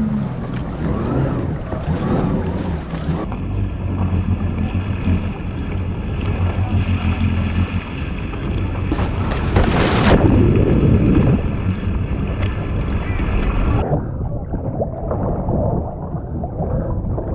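Jet ski engine running at idle, a steady low hum, with wind buffeting the microphone and water around the hull. A louder rushing burst comes about nine seconds in.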